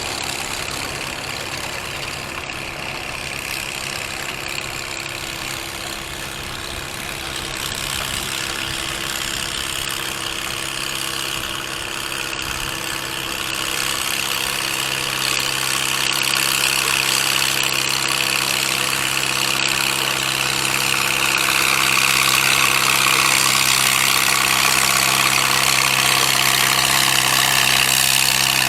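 Gasoline farm tractor engine running steadily, growing louder through the second half as the tractor comes closer or works harder.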